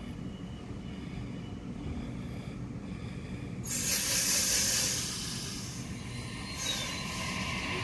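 Sydney Trains double-deck electric train standing at the platform with a steady low hum, then a loud burst of air hissing about four seconds in and a shorter hiss near the end, the air brakes releasing for departure. A faint rising whine begins near the end as it starts to move.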